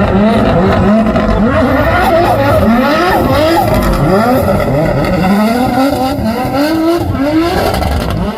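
A performance car engine revving hard again and again, its pitch climbing and falling back in quick repeated sweeps, as in a drift car working the throttle.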